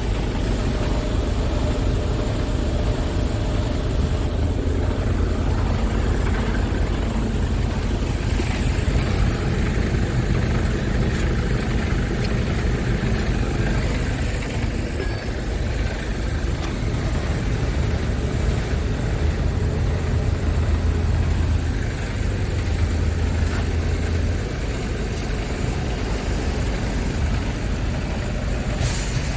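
Scania S tractor unit's engine idling steadily, with one brief click near the end.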